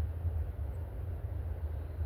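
Steady low outdoor rumble, with a faint high chirp about three quarters of a second in.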